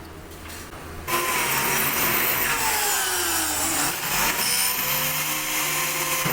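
A power tool starts up about a second in and runs loudly and steadily, its pitch sagging and then recovering as it works.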